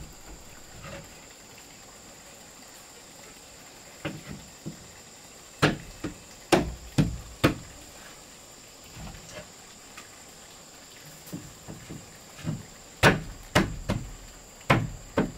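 Irregular sharp knocks and thuds on wood, in two clusters of several strikes each, from timber being worked for the wall. A steady high insect drone runs underneath.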